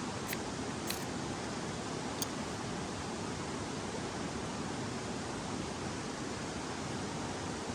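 Steady rushing of a river flowing nearby, an even wash of water noise, with three short faint clicks in the first two or so seconds.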